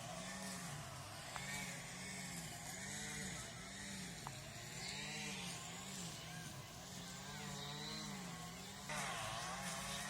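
An engine running, its pitch rising and falling about once a second. A louder rush of noise joins near the end.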